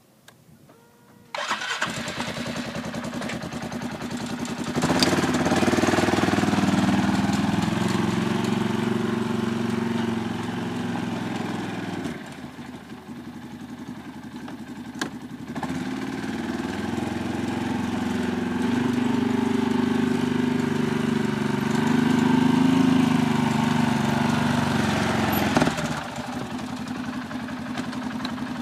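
Arctic Cat 700's engine starting about a second in and idling, then revved and held at higher speed twice, dropping back to idle between the two and again near the end.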